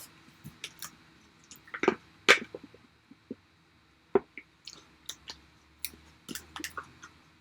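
Close-up eating sounds: chewing, with scattered small wet clicks and a few sharper crunches.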